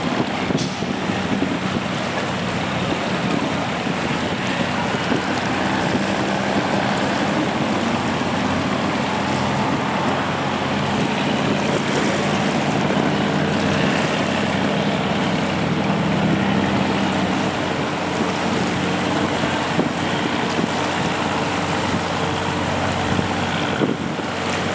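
Boat engine running steadily with a low hum, under the rush of water and wind on the microphone.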